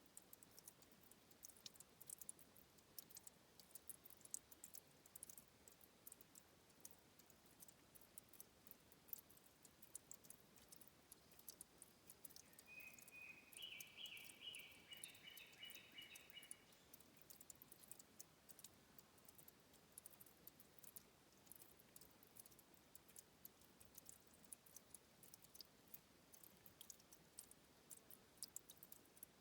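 Faint dripping and trickling of water at a river's headwater spring, heard as a constant patter of tiny high clicks. A short run of high chirping notes comes about halfway through.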